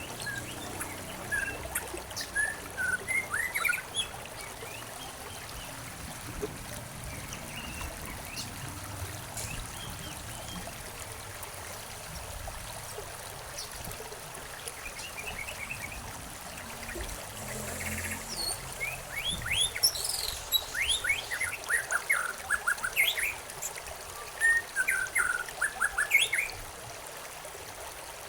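Small songbirds chirping in quick bright bursts, lively in the first few seconds, sparse through the middle, then busy again in the last third, over a steady trickle of running water.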